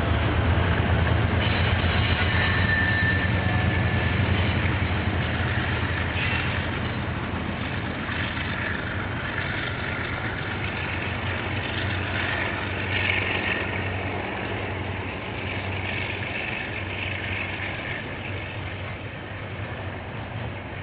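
Freight train passing: KiwiRail diesel locomotives running with a deep, steady drone that fades over the first ten seconds or so as they move away. After that the rolling freight wagons carry on, their wheels on the rails making a higher, noisy sound that slowly grows quieter.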